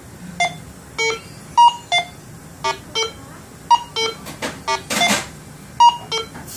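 Minelab Go Find 60 metal detector sounding about a dozen short beeps at shifting pitches as a worn Liberty V nickel passes over its coil, low tones mixed with occasional higher ones: an iffy signal that hits only now and then on the high side. A brief noise about five seconds in.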